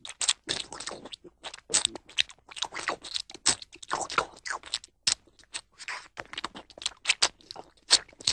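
Chewing and crunching sound effect of a dog eating a fish down to the bones: irregular crisp crunches, several a second.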